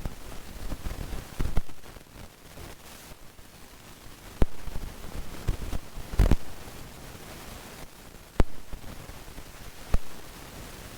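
Steady hiss broken by about five sharp clicks or knocks, spaced a second or two apart. The loudest comes about six seconds in.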